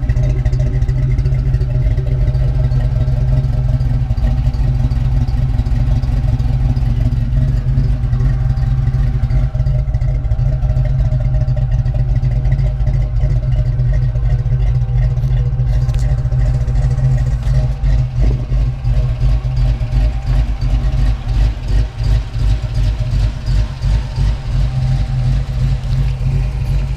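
1991 Ford Mustang 5.0 V8 idling steadily, its exhaust note low and even throughout.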